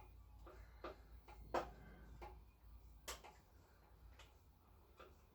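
Faint, irregular clicks and taps, about a dozen, from small parts being handled and worked into place by hand on a motorcycle.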